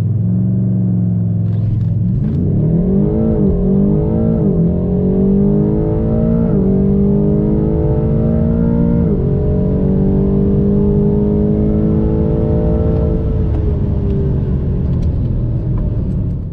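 BMW M8 Competition's twin-turbo 4.4-litre V8, heard from inside the cabin. It is held at steady revs on launch control, then accelerates hard through the gears, the pitch climbing and dropping sharply at four quick upshifts in the first ten seconds. It then climbs more slowly in a high gear and falls away as the throttle eases off, before cutting off suddenly.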